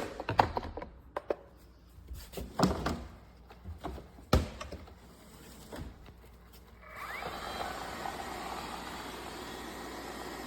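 Lefant M210 Pro robot vacuum: a run of irregular knocks and clatters, then about seven seconds in its motor starts a steady, even whirring.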